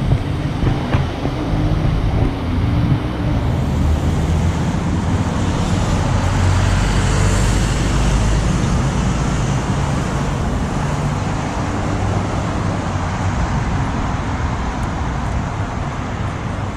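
Road traffic with a heavy vehicle driving past close by, its engine rumble and tyre noise swelling to a peak about halfway through, then easing off. No siren.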